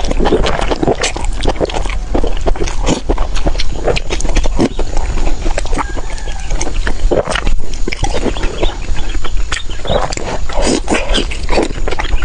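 Close-miked chewing and lip-smacking: a dense, irregular run of quick clicks and smacks as a person eats.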